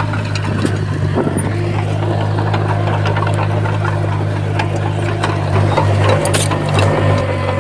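Komatsu bulldozer's diesel engine running steadily, with scattered metallic clicks and clanks; it gets slightly louder for a second or two near the end.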